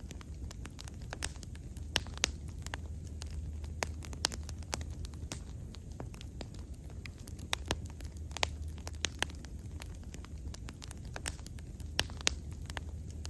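Wood bonfire burning, with irregular sharp crackles and pops from the burning wood over a steady low rumble.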